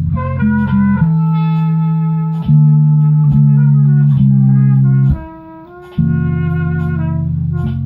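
Instrumental band jam: a bass guitar holds long low notes that change every second or so, dropping out briefly about five seconds in, under a higher lead line that slides between notes, with faint light percussion ticks.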